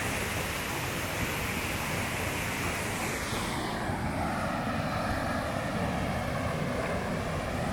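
Small waterfall: a steady rush of falling water, its hiss thinning a little about halfway through.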